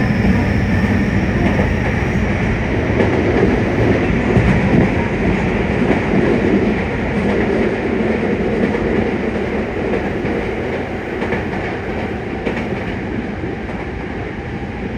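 Yokohama Municipal Subway 3000N train running, with steady wheel-on-rail rumble and clatter. A faint high inverter whine rises slightly and fades in the first couple of seconds. The running noise eases a little near the end.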